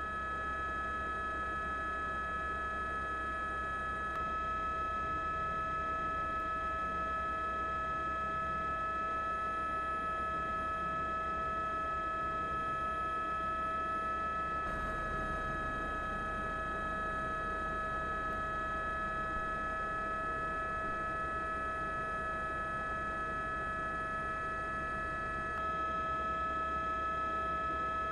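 A steady, unchanging electronic tone with several pitches held together, like a hum or drone, with slight shifts in its mix about 4, 15 and 26 seconds in.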